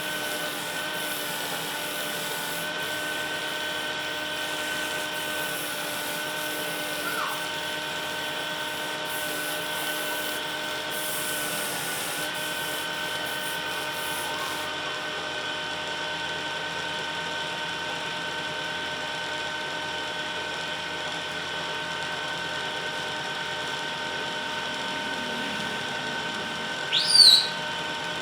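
Wood lathe motor running at a steady speed with a whine of several steady tones. A high hiss runs over it for about the first half, and near the end there is one short, loud, rising screech.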